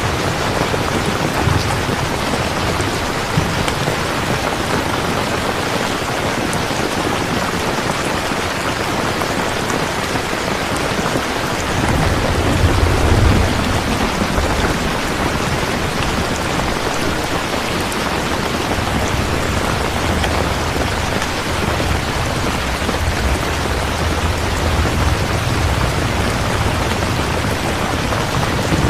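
Steady heavy rain, with low rolls of distant thunder, the strongest about twelve seconds in.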